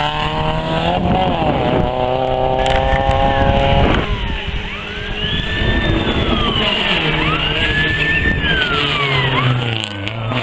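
Rally car engine at full throttle, its note climbing with a brief dip for a gear change about a second in, then cutting off sharply about four seconds in. After that, the engine note rises and falls repeatedly in high-pitched revs.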